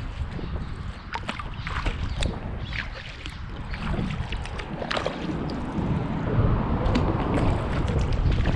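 Wind buffeting the microphone in a steady low rumble, with irregular splashes and drips of a kayak paddle's blades dipping into the water.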